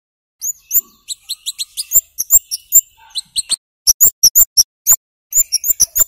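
Scarlet-headed flowerpecker (kemade, cabai jawa) giving rapid, sharp, very high 'cit' calls in quick runs of several notes, broken by short pauses.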